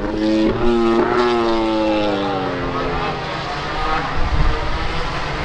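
MotoGP racing motorcycle passing at high revs: its engine note rises briefly about a second in, then drops in pitch and fades as the bike goes away, leaving a lower rumble.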